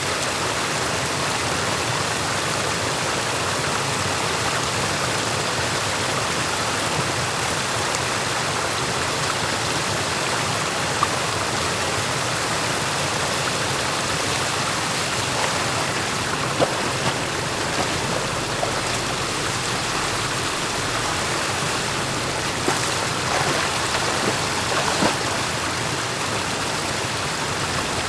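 Stream water rushing steadily, with a few faint short ticks in the second half.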